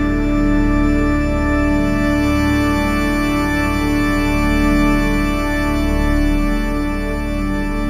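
Music played loud over a large carnival sound system: a held organ-like keyboard chord over a deep, pulsing bass.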